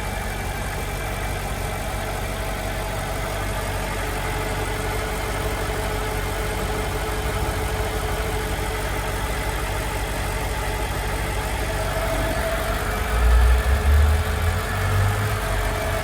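Mercedes-Benz CLK 430's 4.3-litre V8 idling steadily after a cold start. A few heavier low thumps come about three-quarters of the way through.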